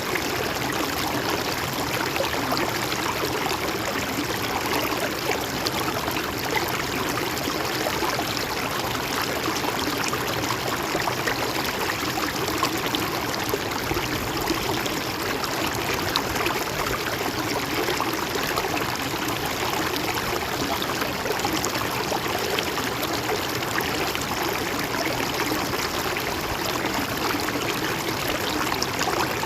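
River or stream water flowing steadily over rocks, a continuous rushing and burbling without pauses.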